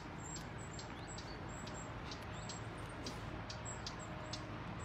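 A small bird repeating short, very high chirps, about two or three a second, over a steady low outdoor background hum.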